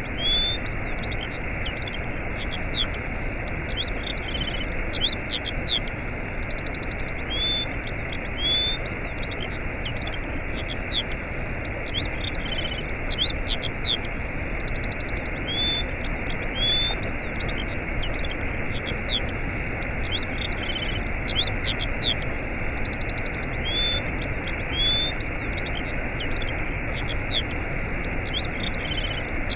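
Waterfall rushing steadily, with many songbirds chirping over it in quick repeated series of short whistled notes.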